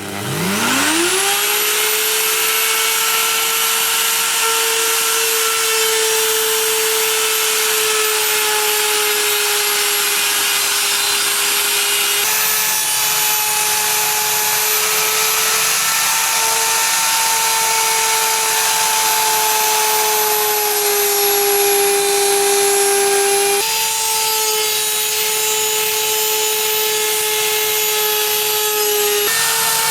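Electric power tool spinning up in about a second, then running steadily with a high motor whine over a dense hiss. Its pitch dips and shifts a little now and then, as if it is taking load while it cuts.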